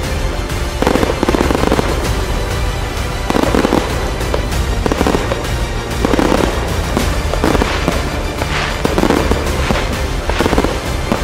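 Aerial fireworks going off in quick succession, dense crackling with a louder burst about every second, over recorded music.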